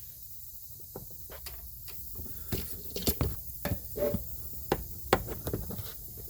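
Irregular clicks, taps and light knocks of hands working on parts at a car's rear wheel hub, with the sharpest clicks about three and five seconds in.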